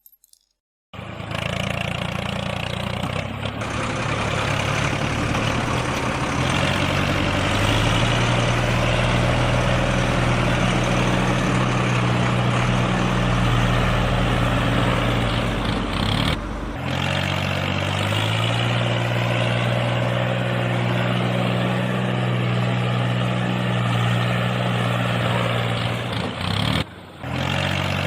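Truck engine running steadily at a low, even pitch that steps up and down a few times, with brief breaks about seventeen seconds in and near the end.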